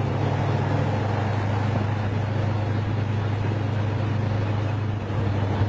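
Big-block Chevy 454 V8 in a Toyota pickup running with a steady low drone, with a slight dip in loudness about five seconds in.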